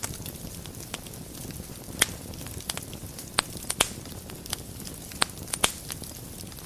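Wood fire burning in a fireplace: a steady low rumble and hiss with irregular sharp crackles and pops, the loudest a few seconds apart.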